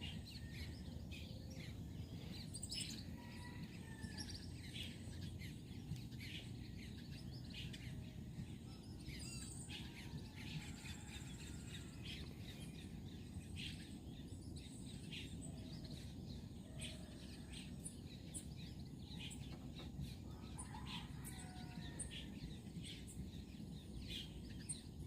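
Birds chirping and calling, many short chirps over a faint steady low rumble.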